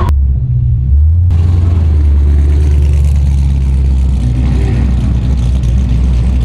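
Car engine and exhaust running with a loud, steady low drone that grows louder about a second in.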